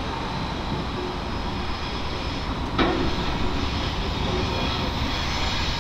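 Intermodal freight train rolling past, a steady rumble of wheels on rail with one sharp knock about three seconds in.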